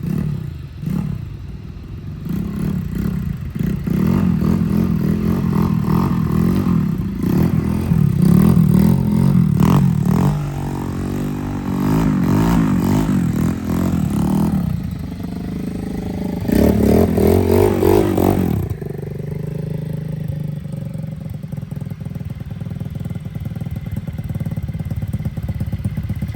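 125cc gas dirt bike engine revving in repeated bursts of throttle as it is ridden, with the loudest rev about two-thirds of the way through. It then settles to a steady idle.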